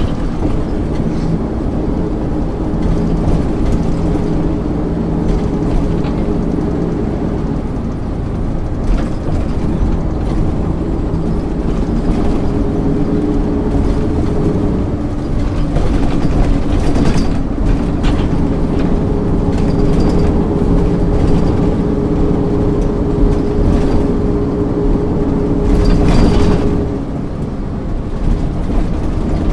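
1999 MAN ÜL 353 intercity bus's diesel engine pulling under way, heard from on board, with rattles from the body. The engine note changes pitch about halfway through and falls away briefly near the end.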